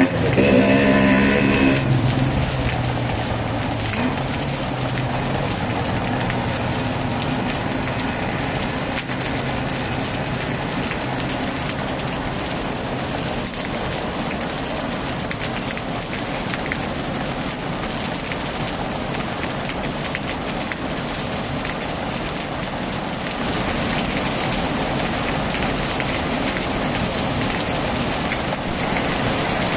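Heavy rain falling steadily on a tin roof, a little louder in the last quarter. A passing engine fades out in the first couple of seconds.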